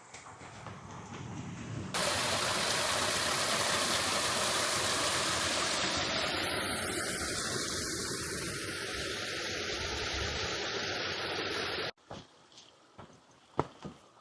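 A loud, steady rushing noise, spread evenly from low to high, that starts abruptly about two seconds in and cuts off sharply about two seconds before the end, followed by footsteps.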